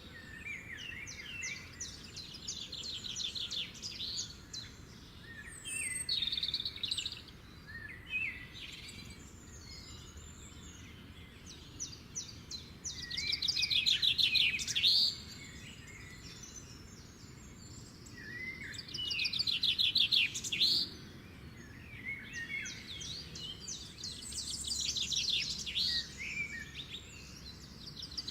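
Songbirds singing: repeated phrases of rapid high trills and chirps, loudest twice, about halfway through and again about two-thirds through, over a faint steady background hiss.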